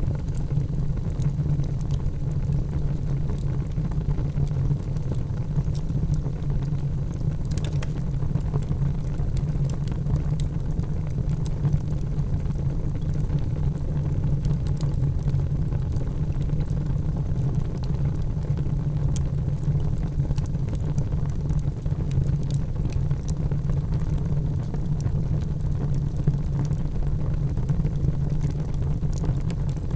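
A wood fire burning in a fireplace: a steady low rumble with scattered small crackles and pops throughout.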